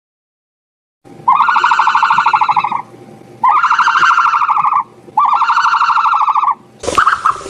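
Three long buzzy calls presented as an ostrich's call, each about a second and a half, made of rapid pulses at a steady pitch. Near the end a different, noisier sound cuts in.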